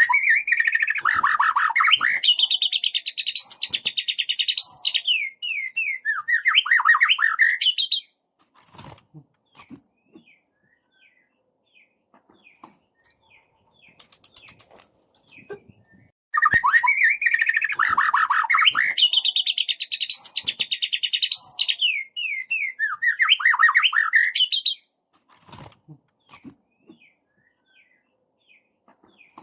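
White-rumped shama song: two long bursts of about eight seconds each, the same phrase both times, made of fast rattling trills mixed with rising whistles and falling notes. Between the bursts are faint scattered chirps.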